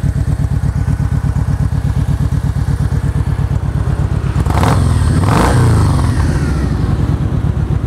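2011 Kawasaki Vulcan Voyager's 1700cc liquid-cooled V-twin idling through Vance & Hines exhaust, with one throttle blip about halfway through that raises the pitch and drops back to idle.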